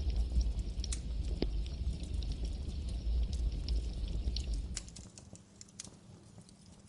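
Campfire crackling, with irregular sharp pops and snaps of burning wood over a low rumble. The rumble drops away about five seconds in, leaving the crackles quieter.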